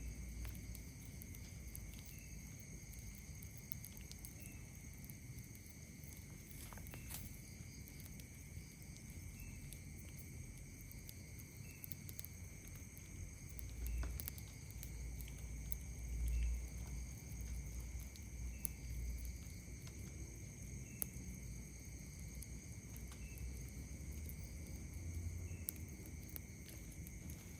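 Night insects trilling steadily on several high pitches, with a small call repeating about every two and a half seconds, scattered light pops and crackles from a campfire, and a few brief low rumbles around the middle.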